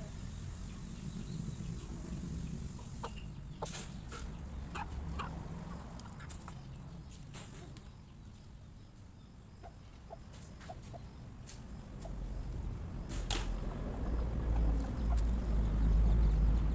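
A flock of chickens feeding: scattered sharp pecking clicks and short soft clucks over a low rumble that grows louder in the last few seconds.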